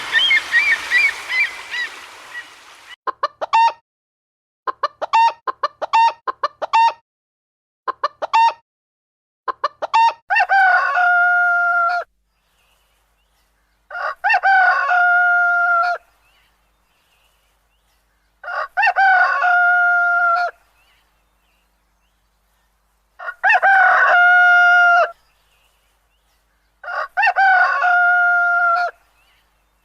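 A rooster crowing five times, each crow lasting about two seconds and coming every four seconds or so. Before the crows come several quick bursts of short clucking calls, and the opening two seconds hold a noisy stretch of other bird calls.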